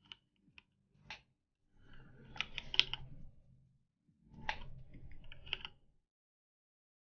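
Computer keyboard keys clicking: a few single taps, then two quick flurries of key presses with dull desk thuds underneath.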